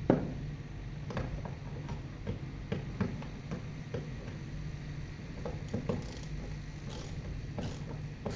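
A steady low hum with irregular sharp clicks and knocks scattered through it, the loudest knock right at the start.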